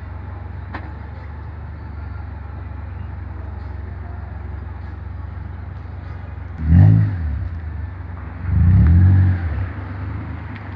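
Honda Accord engine idling steadily, blipped twice: a short rev about two-thirds of the way in, then a longer rev that rises and falls back to idle near the end.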